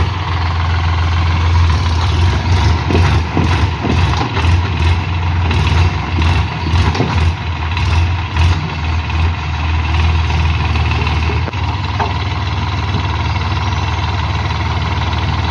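Heavy diesel engine running, with a steady low rumble and a clatter of knocks over the first two-thirds. The rumble drops back to a steadier, lighter run near the end.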